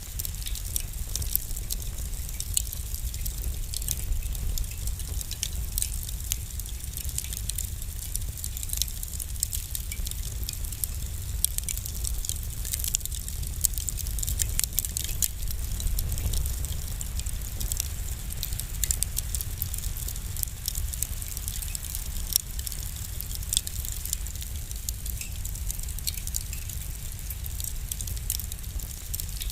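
Wood fire burning in a fireplace: a dense, irregular run of small sharp crackles and pops over a steady low rumble of the flames.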